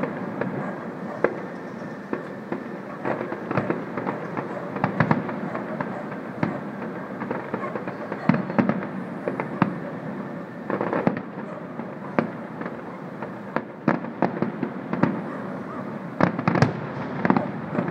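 Fireworks going off across a city, a continuous string of bangs and crackles of varying loudness over a steady rumbling haze. Clusters of louder bangs come about halfway through and again near the end.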